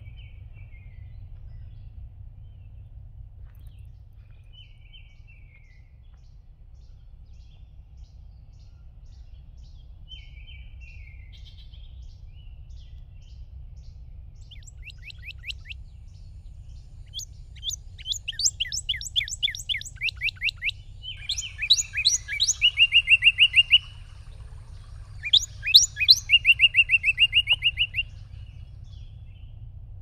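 Songbirds singing: a few faint chirps, then loud rapid trills of quick down-sweeping notes about halfway through, repeated several times near the end, over a steady low hum.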